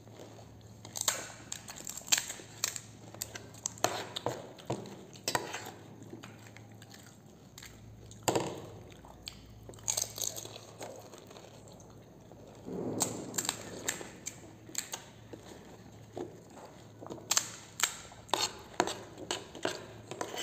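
Crisp fried golgappa (pani puri) shells crunching as they are bitten and chewed, in irregular sharp crunches that come thicker near the end.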